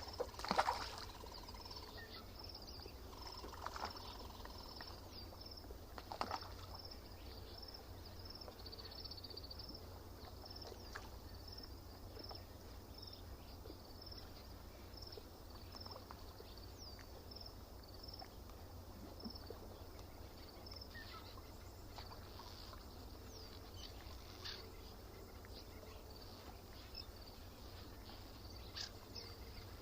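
Lakeside nature ambience: a high, thin chirp repeating about twice a second, scattered short bird calls, and a low steady rumble underneath.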